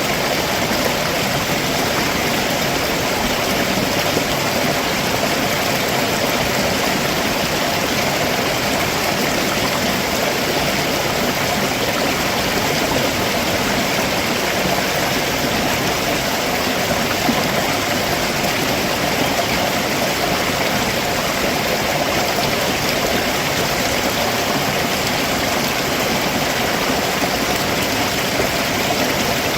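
A rocky stream below a waterfall, its water rushing and splashing over the rocks in a steady, even roar.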